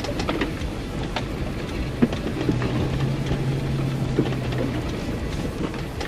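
A 4x4 crawling over a rocky dirt trail: a low engine hum under the steady rumble of tyres on dirt, with scattered sharp knocks and clicks of rocks and gravel.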